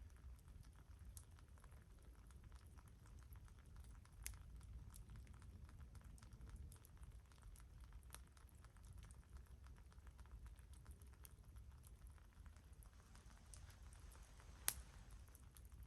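Faint crackling of a wood campfire: many small irregular crackles, with a sharper pop about four seconds in and a louder pop near the end.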